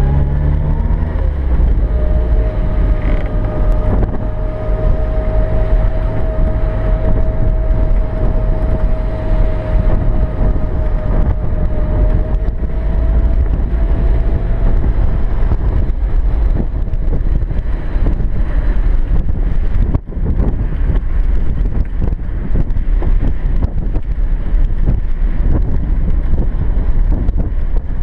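Classic Mini's four-cylinder engine and drivetrain running as the car drives, heard from inside the small cabin, with a low rumble and wind and road noise. Its pitch rises briefly as it accelerates, then a steady whine sits over it through the first half; loudness dips briefly about two-thirds of the way in.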